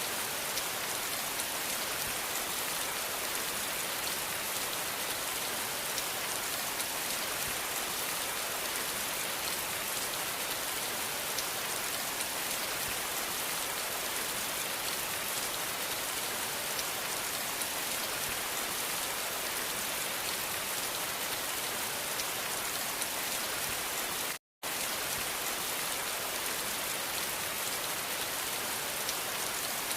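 Steady rain falling: a dense, even hiss of drops with fine individual taps through it. It breaks once, for about half a second, into a sudden dropout to silence about twenty-four seconds in.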